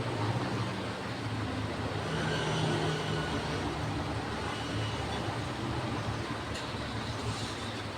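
Diesel engine running steadily with a constant low hum.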